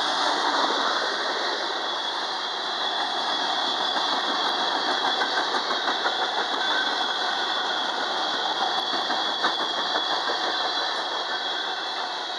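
A freight train's cars rolling past at steady speed: a continuous roar of steel wheels on rail, with light scattered clicks.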